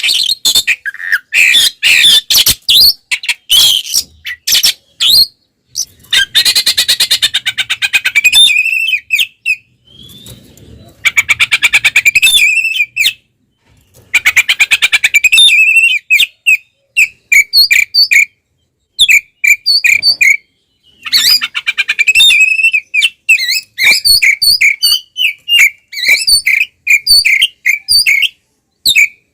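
Oriental magpie-robin (kacer) singing loudly in its aggressive fighting-mode song. It gives phrases of dense rapid trills, then strings of short repeated whistled notes, with brief pauses between phrases.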